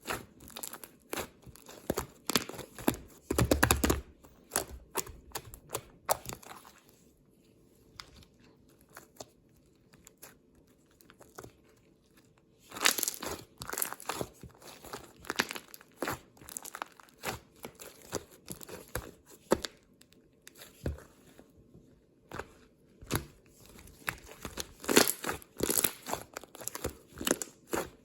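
Irregular crinkling, crackling and tearing, like a crisp material being handled at close range. It goes quieter for several seconds about a quarter of the way in, then picks up again.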